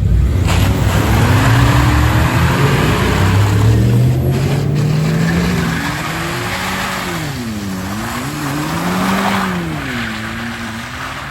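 Pickup truck engine revving hard during a burnout, over the hiss of spinning tyres. The engine's pitch climbs steadily for about five seconds, then drops and rises twice as the throttle is worked.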